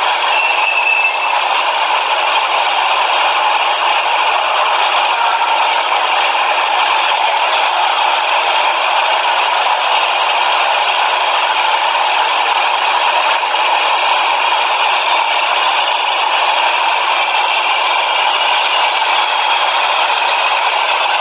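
Subway train running with a steady rattling clatter.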